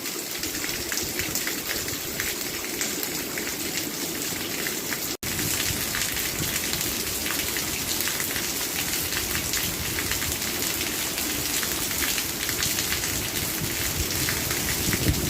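Steady rain falling, a dense patter of many raindrops. About five seconds in the sound cuts out for an instant, and the rain comes back slightly heavier.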